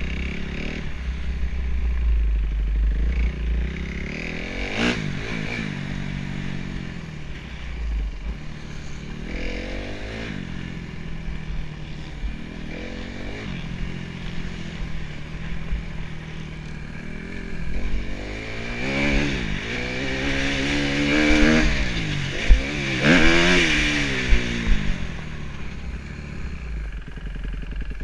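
A 2013 Kawasaki KX250F motocross bike's single-cylinder four-stroke engine revving hard and dropping again, over and over, as the throttle is worked around the track. The rises and falls come fastest and loudest in the second half.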